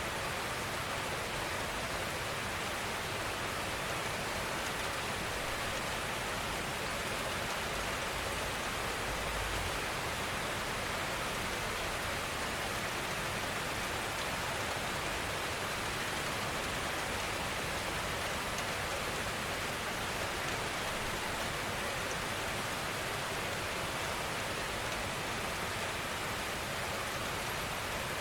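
Steady rainfall, an even hiss of rain on surfaces at a constant level.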